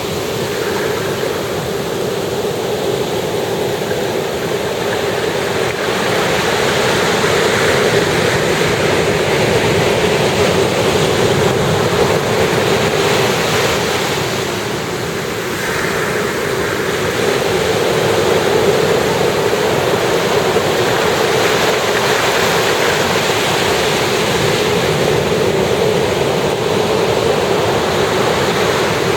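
Ocean surf breaking and washing continuously on a sandy beach, a steady rushing roar that eases briefly about halfway through before building again.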